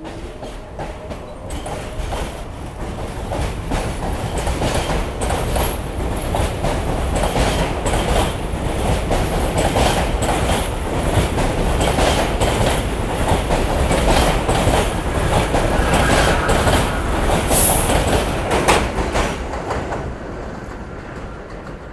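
A New York City subway train (F line) running along the track. The clatter of its wheels over the rail joints builds up from the start, stays loud with many sharp clacks, and fades after about twenty seconds.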